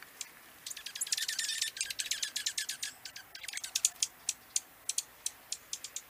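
Dark-eyed junco calling with sharp, high chip notes: a fast run of them about a second in, then single chips spaced out through the rest.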